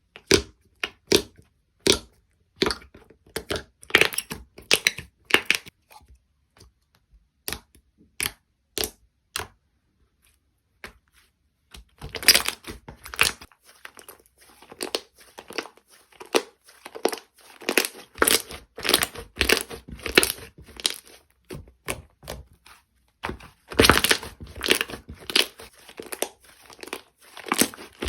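Slime being handled: pressed, stretched and poked by hand, giving sharp sticky pops and crackles. The pops are scattered for about the first ten seconds, then come in a denser run of crackling from about twelve seconds in.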